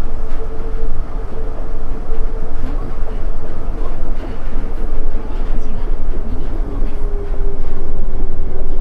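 Nippori-Toneri Liner 330-series car running between stations: a low rumble from its rubber tyres on the concrete guideway, with a steady motor whine that slowly falls in pitch as the train slows.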